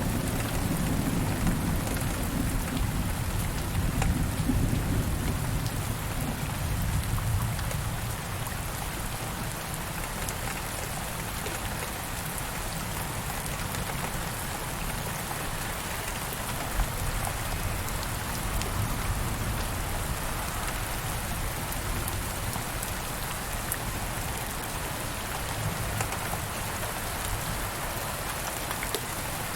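Steady rain falling, with a low rumble of thunder over the first several seconds that fades away.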